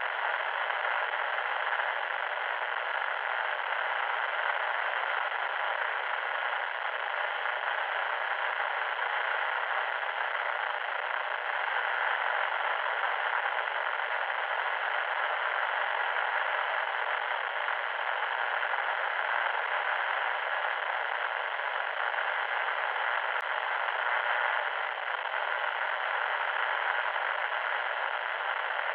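Loud static noise: a steady, thin hiss with no low or high end, going on without a break or change.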